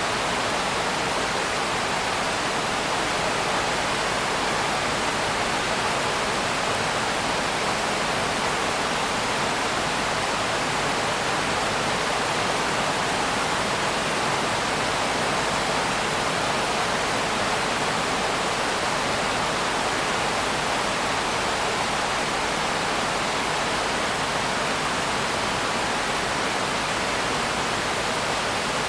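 Steady rain, an even rushing hiss with no single drops or thunder standing out.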